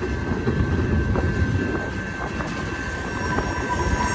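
Freight train cars rolling past with a steady low rumble and light clicks from the wheels, wind buffeting the microphone. About three seconds in, a thin high wheel squeal begins.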